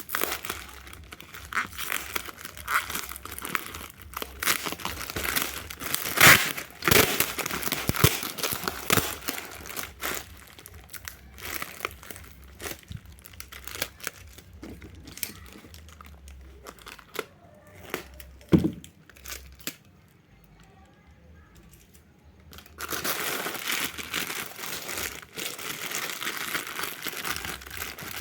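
Parcel packaging being unwrapped by hand: continuous crinkling and crackling with some tearing, a single sharp knock, then a pause of about three seconds before the crinkling starts again.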